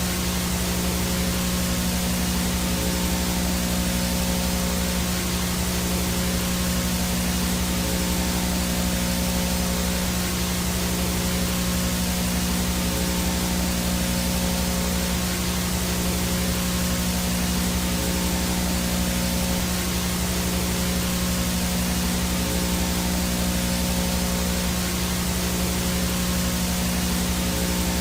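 VHS static noise from a blank, no-signal tape: a steady, even hiss with a low electrical buzz running underneath it.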